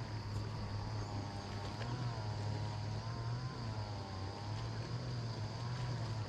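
An engine running steadily at a constant speed: a low hum under a higher drone that wavers slightly in pitch.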